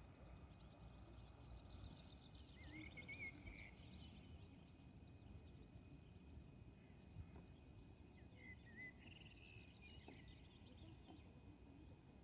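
Faint outdoor ambience: a bird gives two short warbling calls, about three seconds in and again near nine seconds, over a low, even background hiss.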